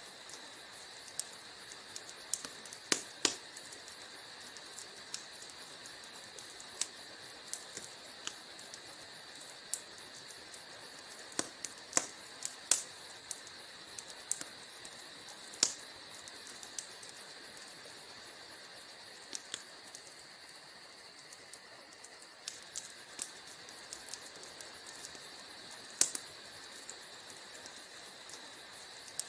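Wood fire crackling in a fireplace: a steady soft hiss with irregular sharp pops and snaps, a few of them much louder than the rest.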